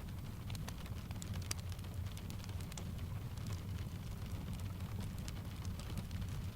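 Blended rain and fireplace ambience: steady rain with a low rumble underneath, and scattered small sharp crackles and taps throughout.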